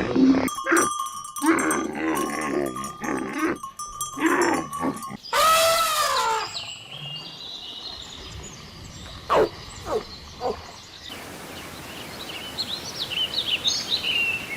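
A string of different animal calls: pitched cries in the first few seconds, one loud call rising and falling in pitch about six seconds in, three short falling calls around ten seconds, and high chirping near the end.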